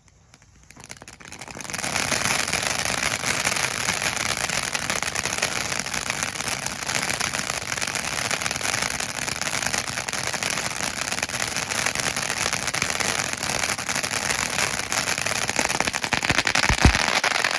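Ground fountain firework spraying with dense, steady crackle, building up over the first couple of seconds and then holding; a low thump near the end.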